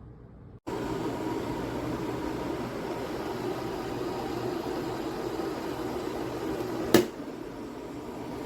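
COSORI stainless-steel electric kettle heating water, a steady rumbling hiss that starts abruptly about half a second in. A sharp click about seven seconds in, after which the sound drops somewhat: the kettle's automatic shut-off at the boil.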